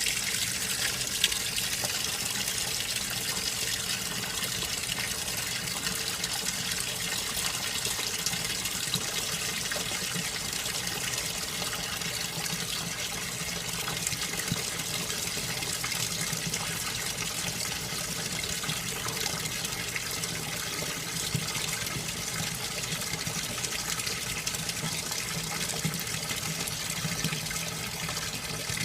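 SANYO ASW-40C1 coin-operated 4 kg washing machine filling with water: a steady rush of water pouring into the tub, with a faint steady hum beneath it.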